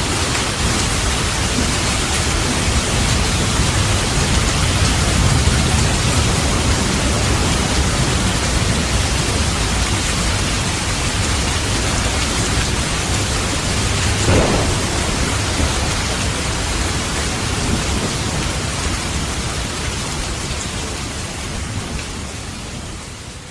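Steady heavy rain with low rumbling thunder, and one short, louder clap about fourteen seconds in. The storm fades out near the end.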